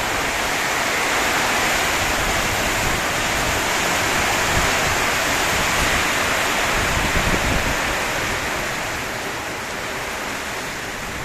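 Heavy rain pouring down in a dense, steady hiss, with gusts of wind rumbling on the microphone.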